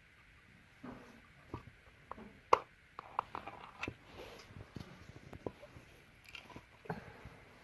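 A 3D-printed plastic box and its sliding lid being handled: irregular small clicks and knocks, with one sharper knock about two and a half seconds in.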